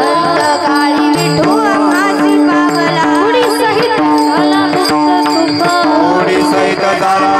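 Marathi kirtan devotional music: a held drone note under a wavering melodic line, with steady percussion.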